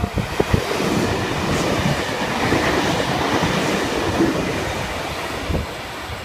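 Blue Mountains V-set double-deck electric intercity train passing the platform without stopping: a few wheel clacks at the start, then a rush of wheel-on-rail noise that builds and slowly fades as it goes by.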